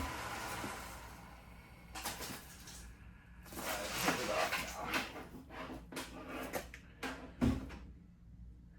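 Box fan with broken blades, run at full speed: its steady hum dies away after about a second. Irregular clattering and knocking follow, and the fan topples onto its back with a heavy thump near the end.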